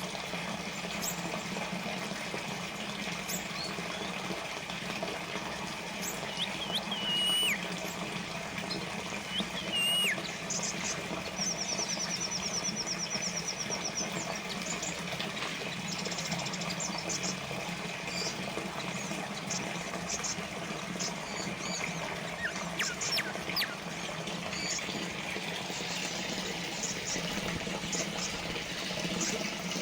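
Small water fountain trickling and splashing steadily, with a few short bird whistles and chirps over it and a brief rapid trill about twelve seconds in.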